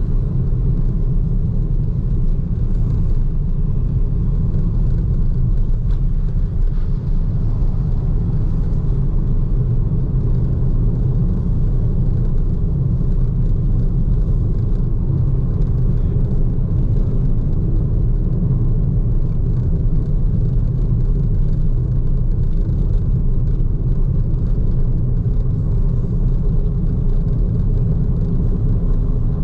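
Steady low road rumble of a BYD Seagull electric hatchback driving, from tyre and road noise, with no engine note.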